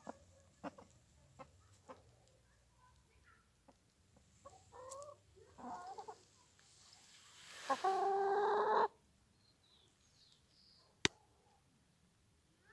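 Bird calls: several short calls, then a louder, steady call lasting about a second, and a single sharp click near the end.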